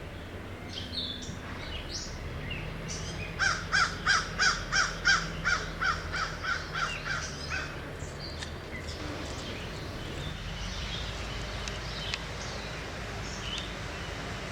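A bird giving a fast series of about fourteen harsh calls, about three a second, fading toward the end, with scattered short chirps from other birds around it.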